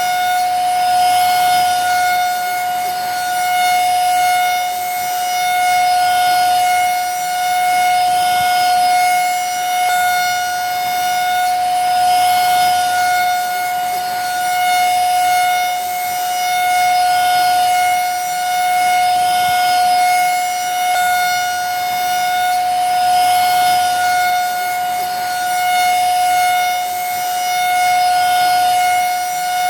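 Vacuum cleaner motor running steadily: a constant high whine over rushing air, swelling and easing every couple of seconds.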